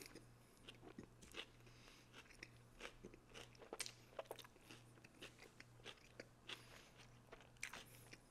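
Close-miked chewing of a Subway footlong on Italian bread with raw vegetables and salami: faint, irregular crunches and wet mouth clicks, several a second.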